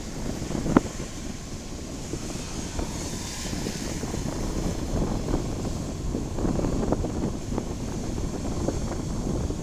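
Typhoon wind gusting across the microphone, a steady low rumbling noise that swells and eases, with a sharp knock about a second in.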